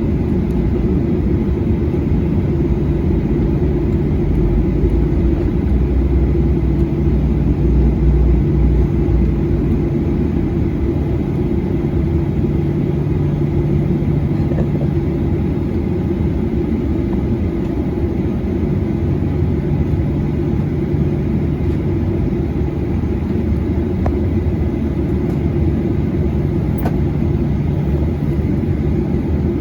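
Cabin noise of a Boeing 737-800: its CFM56 jet engines and airflow give a steady loud rumble with a low hum, swelling a little in the bass about a third of the way in.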